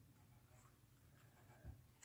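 Near silence: faint room tone with one soft, low knock near the end.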